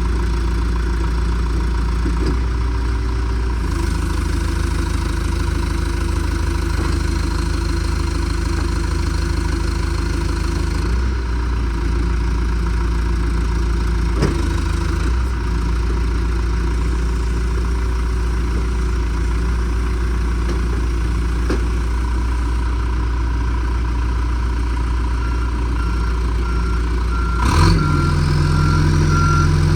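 2001 John Deere 310SG backhoe loader's diesel engine running steadily, its pitch shifting slightly a few times. Near the end there is a clunk, the engine note deepens, and the reverse alarm begins beeping at an even rate.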